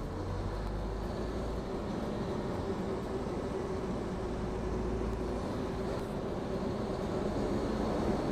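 An XCMG off-highway dump truck running with a steady, unchanging mechanical drone.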